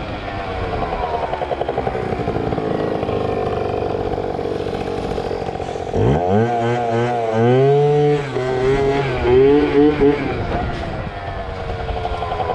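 Yamaha ZR Evo two-stroke scooter engine running at a steady drone that slowly sags in pitch, then about six seconds in it is revved hard, climbing and dropping in pitch several times before settling back.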